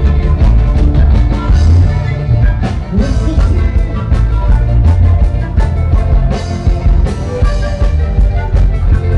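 Live band playing loud, upbeat music with a steady drum beat and heavy bass.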